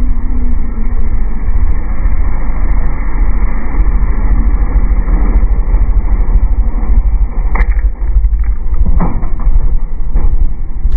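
A motor vehicle's engine running with a heavy low rumble, and a few sharp knocks near the end.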